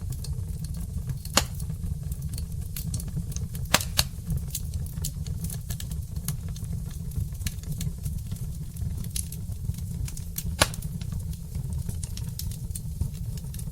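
Wood fire burning in a fireplace, crackling with a run of small snaps and a few louder pops over a steady low rumble.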